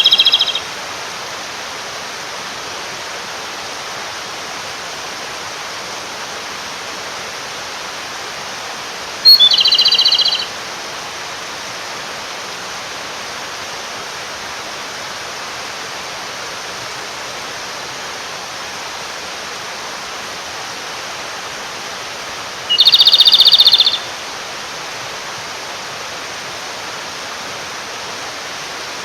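Japanese robin (komadori) singing: three short, loud song phrases, each a high opening note run into a rapid trill, about nine and thirteen seconds apart. A stream rushes steadily underneath. The male is singing to call a female.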